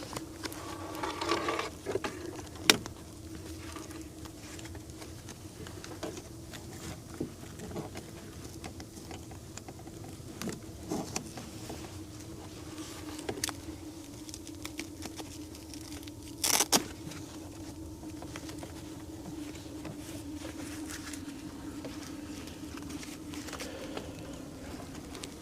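Scattered clicks, taps and rustles of handling as a string of 12-volt lights is hung up with bungee cords, over a steady low hum. There is a sharp knock about three seconds in and a brief louder clatter about two-thirds of the way through.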